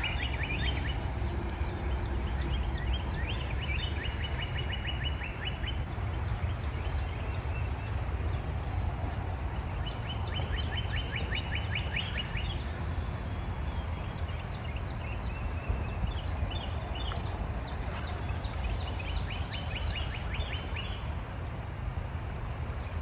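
Songbirds calling back and forth in repeated rapid trills, each run lasting a couple of seconds, over a steady low rush of background noise.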